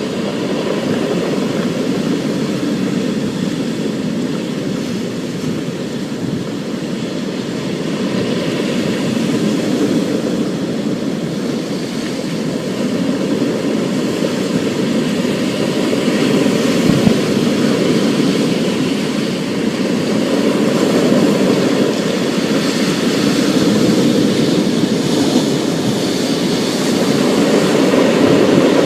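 Thunderstorm: a steady, loud rush of rain with a low rumble underneath, slowly swelling in level.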